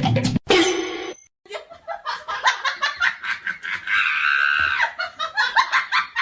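Human laughter in rapid bursts, with a louder, higher-pitched cry about four seconds in.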